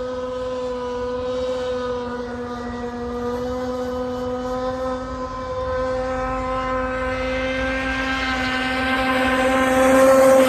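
Tiger King 26 open-port model engine on the Phantom 145 model, running at a steady speed with a buzzing note, growing louder near the end as it passes close.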